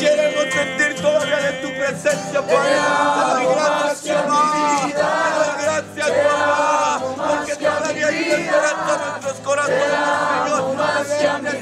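A group of voices singing a worship song together.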